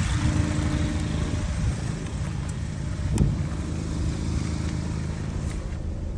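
Cadillac ATS engine idling steadily with the air conditioning running, with a single sharp click about three seconds in.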